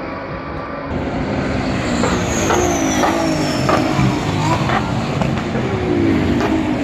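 GT race car engines running past, louder about a second in, with the engine note falling several times and short sharp pops in between.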